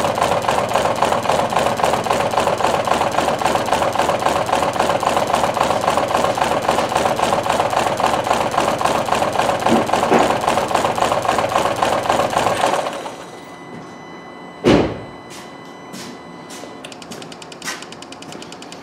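Ford C-Max 1.6 petrol four-cylinder engine idling rough with a fast uneven flutter, misfiring because cylinders 2 and 3 are not firing: their coil pack control wire is not grounding through the ECU. About two thirds of the way through, the engine sound drops away sharply to a faint steady background, and a single thump follows about two seconds later.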